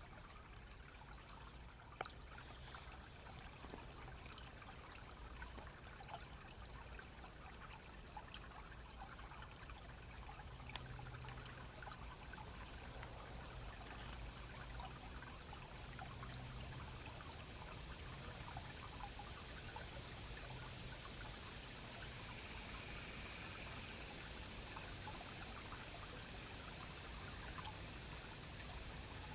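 A small, clear stream running steadily, a faint even trickling and splashing of water. There are two brief clicks, one about two seconds in and one about eleven seconds in.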